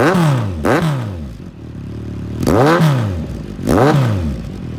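2019 Kawasaki Z900's inline-four engine through an aftermarket exhaust, blipped four times: each rev rises quickly and falls back to idle. Nice and loud.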